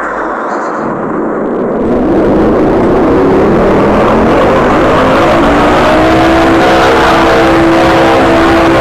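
Electric fan motor spinning up: a rush of air that grows louder about two seconds in, while the motor's hum rises in pitch for a few seconds and then settles into a steady tone at full speed.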